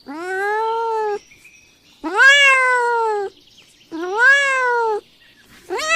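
A cat meowing: three drawn-out meows of about a second each, every one rising and then falling in pitch, with a fourth starting near the end.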